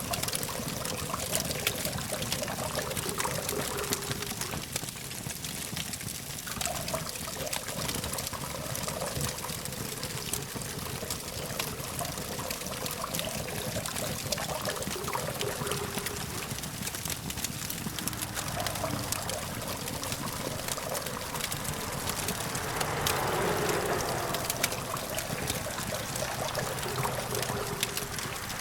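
Campfire crackling, frequent sharp pops and snaps over a steady hiss, with a low hum of distant traffic beneath; a broader swell of noise rises and fades about 23 seconds in.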